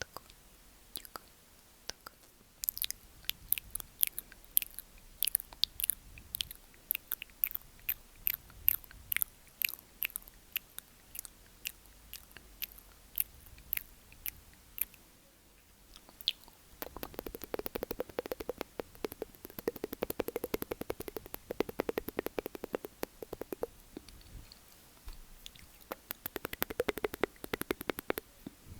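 Close-miked wet mouth sounds: scattered tongue and lip clicks, then from about halfway a fast, dense run of rapid clicking mouth sounds.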